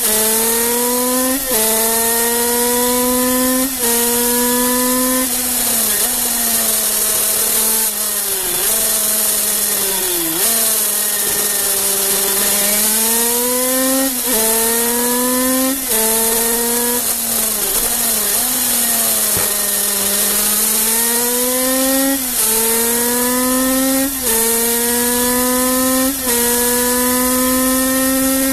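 Kreidler 50cc two-stroke racing engine at high revs, its pitch climbing through each gear and dropping sharply at every upshift, several times in quick succession. Around the middle the revs fall away twice as the bike slows for corners, then climb again.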